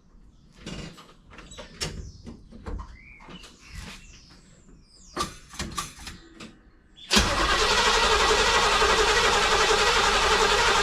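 A few scattered clicks and knocks, then about seven seconds in the 1963 Chevy C10's 400 small-block V8 suddenly starts and keeps running steadily. It is firing up for the first time with a newly fitted HEI distributor, after standing about eight months.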